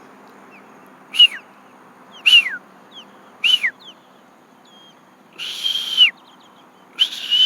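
Osprey giving a series of loud, high whistled calls, each note sliding down in pitch, about one a second, with one longer drawn-out call about five and a half seconds in.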